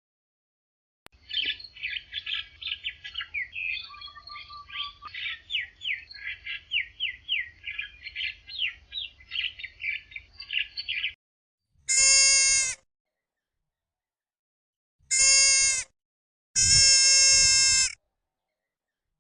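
Birds chirping in quick, high, overlapping calls for about ten seconds. After a short pause come three long, loud bleats.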